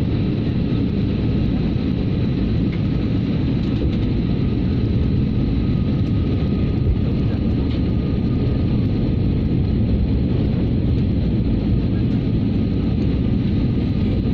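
Steady engine and airflow noise inside a passenger jet's cabin in flight, with faint high thin whines running under it.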